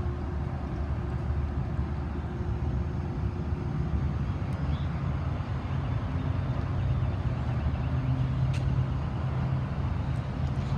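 An engine running steadily nearby, a low hum that gets a little louder about four seconds in.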